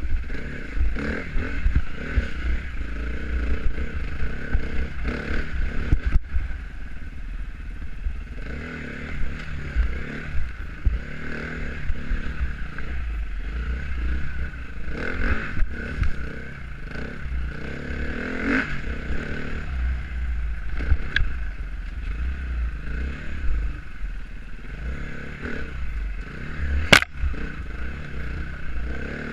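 Off-road motorcycle riding a trail, its engine running steadily with a heavy low rumble. Scattered knocks and rattles come through, with one sharp knock near the end.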